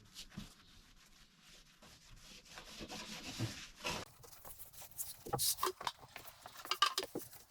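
A cloth rubbing and wiping over a sanded car body panel while it is cleaned with degreaser before primer. In the second half come scattered light clicks and knocks.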